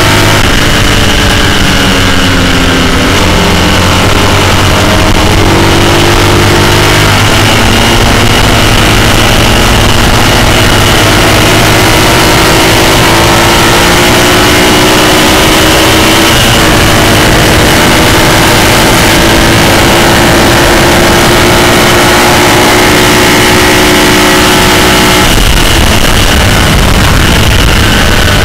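Classic racing sidecar outfit's engine at full throttle, very loud, over heavy wind rushing on an onboard microphone. The engine note climbs slowly over a long stretch, with a break a few seconds in and an abrupt change near the end.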